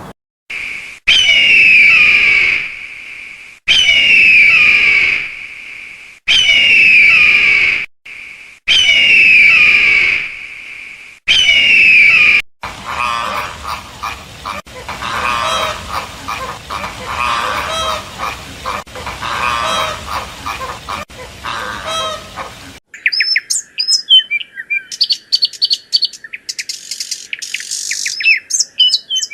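Bird calls in three separate recordings one after another. First come five loud calls about two and a half seconds apart. Then a stretch of busy chattering, and near the end rapid, high chirps and trills.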